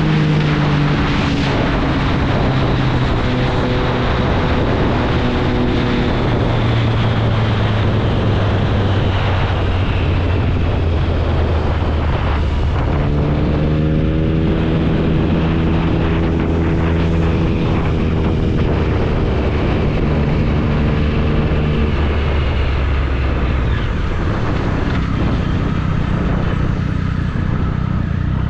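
Triumph Speed Triple 1050's inline three-cylinder engine through an SC Project exhaust, heard from the bike while riding. The engine note falls and holds, picks up sharply about halfway through, then slowly drops again, with steady wind rush throughout.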